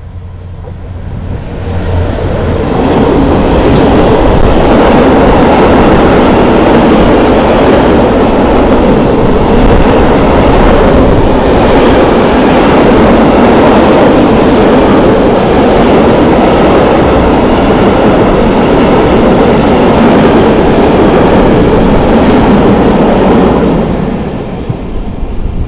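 Bombardier TRAXX diesel locomotive passing close by with a long train of lime silo wagons. The sound builds over the first few seconds as the locomotive arrives, then the wagons' wheels rumble steadily on the rails for about twenty seconds, and the sound falls away near the end as the last wagon passes.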